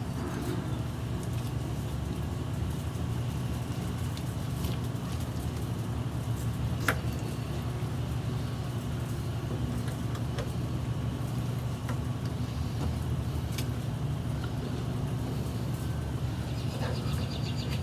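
Steady low rumble in the background, with a few scattered sharp clicks and taps of a knife and fork carving a whole cooked chicken; the loudest click comes about seven seconds in.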